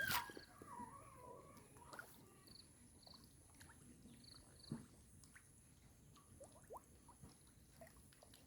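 Near silence: a sharp click at the start, then faint scattered ticks and short chirps, with a soft thump about halfway through.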